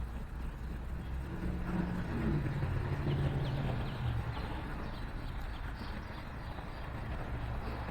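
Outdoor city ambience: a steady low traffic rumble, with a vehicle's engine hum swelling and fading as it passes, from about a second and a half in to about four seconds in. Faint small-bird chirps sound over it from about three to six seconds in.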